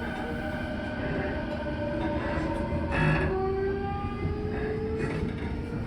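Inside an Odakyu 4000-series electric train: steady electrical tones, then a short knock about three seconds in, after which a motor whine rises slowly in pitch as the train gathers speed.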